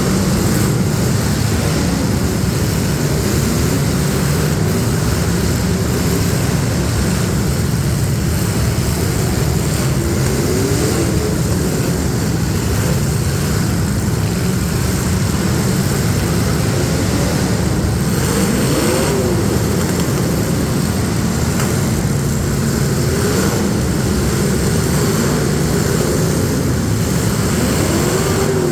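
Demolition derby street stock cars' engines running and revving together in a dense, steady drone, with single engines rising and falling in pitch now and then.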